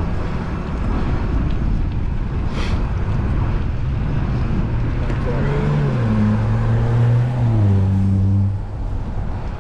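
Wind rushing over the microphone on a moving bicycle. From about halfway, a motor vehicle's engine comes through, its pitch stepping up and then dropping in a few distinct steps. It is loudest in the last few seconds.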